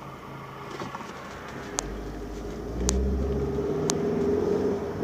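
2004 Mitsubishi Galant being driven and accelerating, its engine and road noise growing louder, with three sharp clicks about a second apart. The automatic transmission is shifting normally again now that the output speed sensor connector has been repaired.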